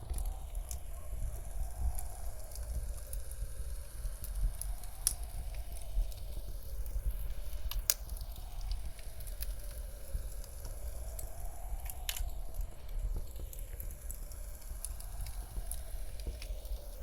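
Wood fire crackling in a fireplace, with frequent sharp pops, over a constant deep rumble of blizzard wind. The whole mix is panned slowly around the listener in the '8D audio' manner.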